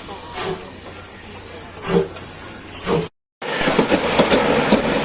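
Steam locomotive hiss with three short puffs a second or so apart. After an abrupt cut, a train running on the rails, with a steady rattle and rapid clicking.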